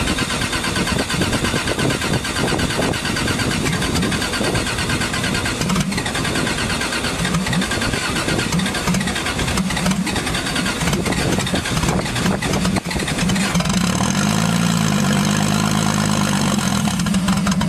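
A Subaru Impreza's engine being cranked and trying to start, churning unevenly. Near the end the sound steadies and swells up in pitch and back down.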